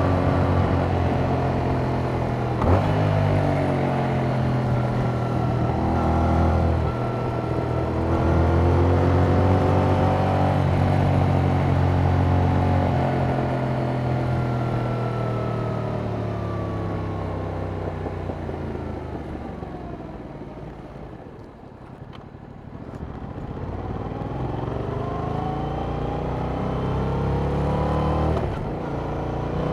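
Yamaha MT-07's parallel-twin engine through its stock exhaust, pulling through the revs with a sharp click about three seconds in. The revs and loudness then fall slowly as the throttle is rolled off, reaching their quietest about two-thirds of the way through. After that the revs climb again and the engine accelerates hard near the end.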